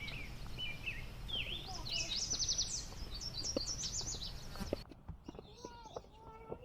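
Birds chirping and twittering in quick high trills, loudest two to three seconds in. The chirping cuts off suddenly about five seconds in, leaving a quieter background with faint pitched tones.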